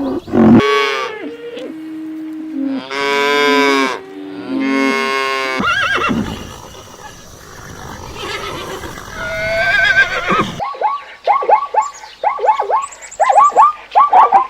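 Farm animals calling in a row. Several long, drawn-out calls come during the first half, then about ten and a half seconds in, after an abrupt change, a quick run of short repeated calls follows.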